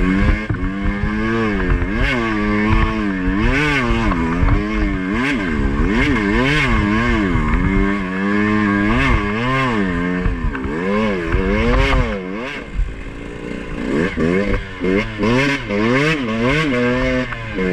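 Two-stroke Beta enduro dirt bike engine revving up and down again and again as the throttle is worked over rough trail, dropping briefly to a lower note a little past the middle, with short knocks and clatter from the bike.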